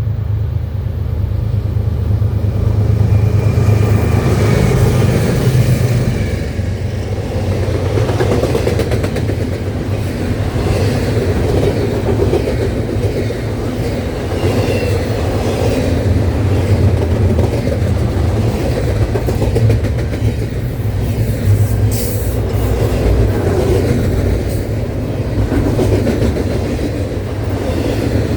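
CSX intermodal freight train rolling past, a steady loud rumble of wheels on rail with clattering from the cars. A brief high-pitched screech about 22 seconds in.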